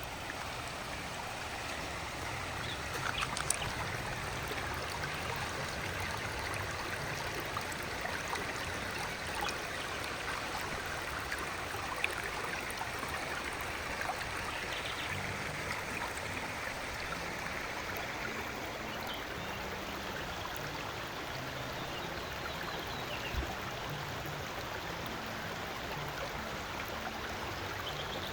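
Steady rushing and gurgling of a flowing river stream, with a few faint clicks.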